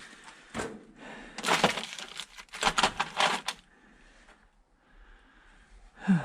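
Metal hand tools clinking and clattering in several bursts as they are rummaged through in search of a 10 mm wrench, quieter for a moment near the end.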